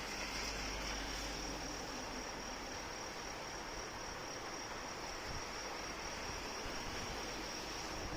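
Steady rain hiss with insects, crickets by the sound of the tags around it, keeping up one continuous high-pitched trill.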